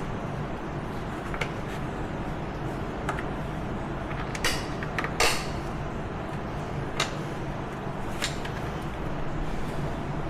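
Scattered clicks and knocks of hand tools and metal parts being handled while a heel guard is screwed onto an ATV, over a steady low background noise.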